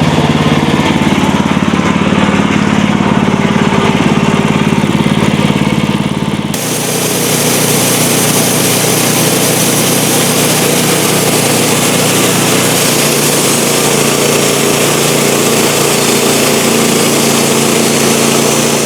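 Small-engine sawmill running steadily while its blade saws boards from a wooden cant. About six and a half seconds in, the sound changes abruptly to a brighter, hissier sawing noise, which then holds steady.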